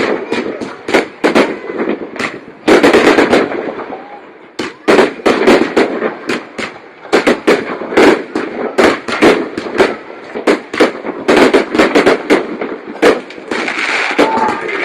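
Fireworks display going off: a dense, irregular run of sharp bangs and crackling reports, several a second in clusters, with short lulls between volleys.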